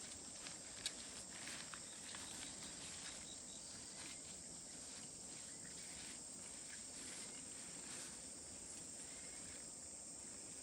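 Quiet outdoor ambience: a steady high insect drone, like crickets, with scattered faint clicks and one sharper tick about a second in.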